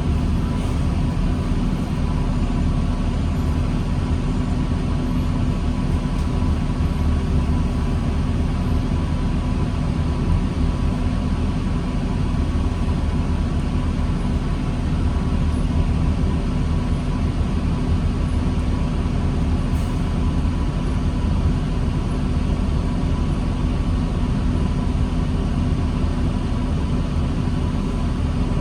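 Diesel engine of a 2009 New Flyer D40LFR transit bus running steadily, a low rumble with a steady hum over it and no revving.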